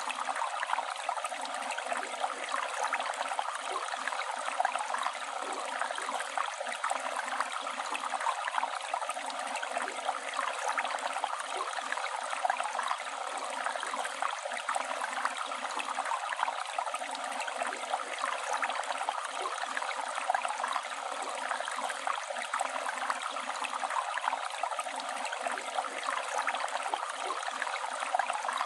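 Flowing river water rushing and gurgling in a steady, unbroken wash.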